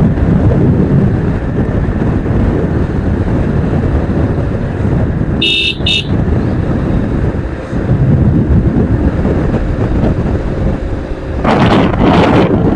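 Steady road and wind rumble on a moving motorcycle in city traffic, with a vehicle horn giving two short toots about five and a half seconds in.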